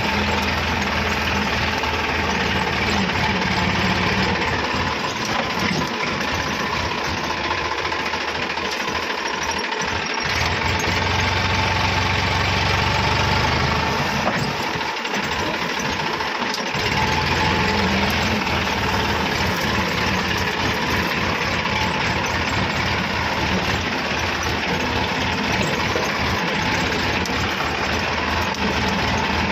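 Tractor engine running, its low note dropping away briefly twice.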